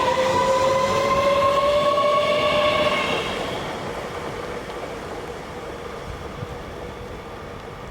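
X52 Regina electric multiple unit running with a whine that rises slowly in pitch, as when it accelerates. The whine fades out about three seconds in, leaving quieter rolling noise.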